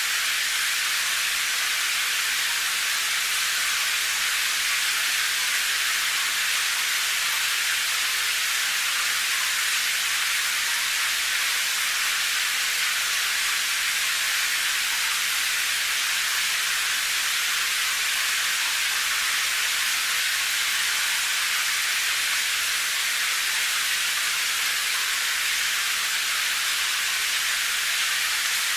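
Steady rain: a dense, unchanging high hiss with little low rumble and no separate drops standing out.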